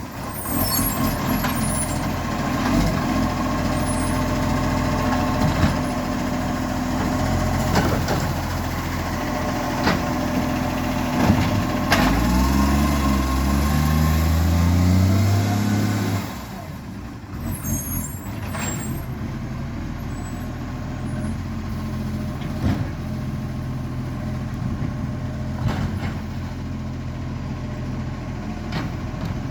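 Vehicle engine running with an exhaust leak. It is blipped, rising and falling in pitch from about twelve seconds in, then drops back to a quieter steady idle about sixteen seconds in.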